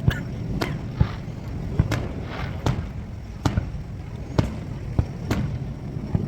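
Fireworks going off, one sharp bang about every second, with a steady low rumble beneath.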